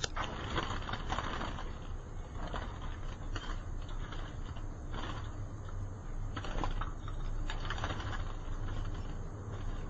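Irregular light clicks and rustles, like caged hooded siskins hopping on perches and cage wire.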